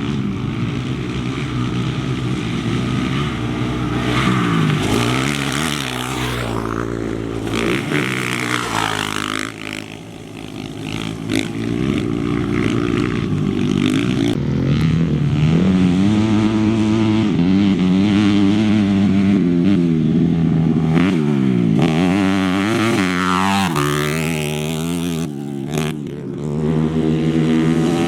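Off-road racing motorcycles and quads passing one after another, their engines revving up and dropping back through the gears with the pitch swinging up and down; the sound changes abruptly several times.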